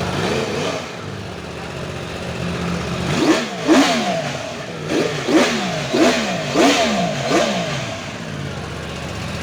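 Yamaha R1M's crossplane inline-four engine idling, blipped once briefly, then revved in a quick series of about seven throttle blips, each rising in pitch and falling back, before settling to idle again.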